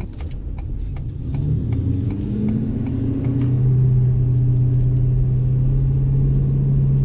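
Ford 6.7 Power Stroke V8 turbo-diesel running through a 5-inch straight-pipe exhaust while the truck accelerates: the rumble rises in pitch and gets louder over the first few seconds, then settles into a steady deep note. A few light clicks over the first few seconds.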